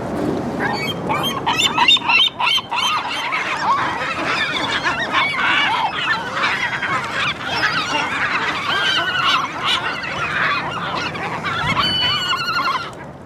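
A flock of gulls calling, many harsh cries overlapping one another.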